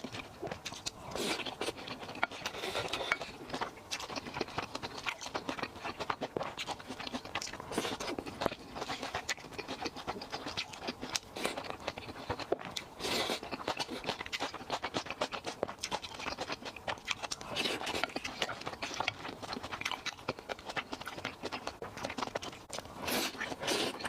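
Close-miked chewing and mouth sounds of a person eating: a dense, continuous run of small wet clicks and crunches, with louder bites about 1, 13 and 23 seconds in.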